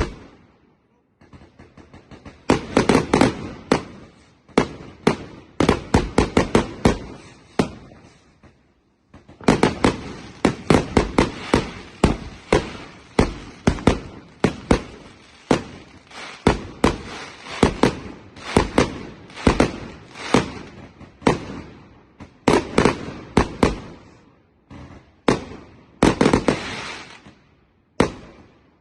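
Fireworks going off in rapid volleys of sharp bangs and crackles, one cluster after another, with short lulls about a second in and around eight to nine seconds in.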